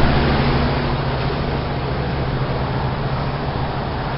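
Heat pump outdoor unit running in heating mode: a steady fan whoosh over a constant low compressor hum.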